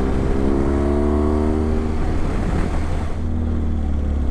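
Motorcycle engine accelerating, its pitch rising for about two seconds, then running steadily, over heavy wind noise.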